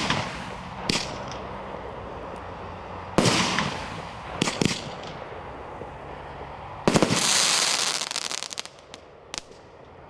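Firework cake (Brothers Pyrotechnics 'Jaberwocky') firing: a few separate shots and bursts, then about seven seconds in a loud, dense crackling finale that thins into scattered pops and dies away.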